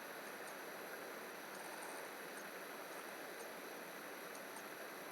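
Steady faint hiss of microphone background noise and room tone, with no distinct sound events.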